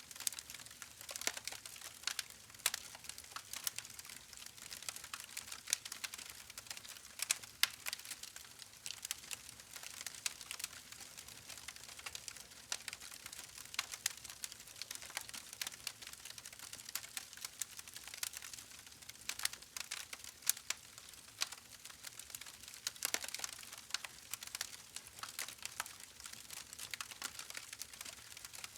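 Wood campfire crackling: irregular sharp pops and snaps, a few louder than the rest, over a soft steady hiss.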